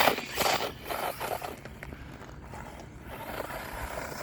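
Battery-electric RC motorbike's rear tyre spinning and sliding on frozen ground, with a quick run of scrapes in the first second and a half, then a fainter steady scrabbling. The tyre cannot get a grip on the frozen surface.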